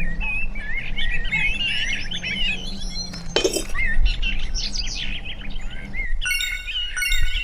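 Birds chirping in quick warbling phrases, with one sharp knock about three and a half seconds in. About six seconds in, a tinkling jingle of music takes over.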